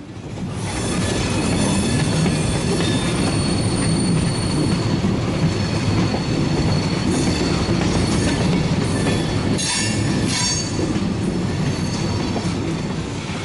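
Train rolling on rail, with wheels squealing and a clickety-clack of rail joints. It swells in over the first second and then holds steady, with a run of sharp clicks about ten seconds in.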